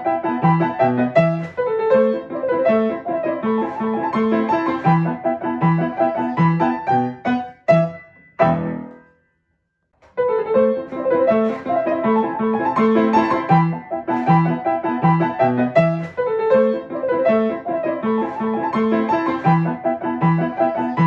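Background piano music playing a repeating pattern of notes. It stops for about a second, roughly nine seconds in, then starts again.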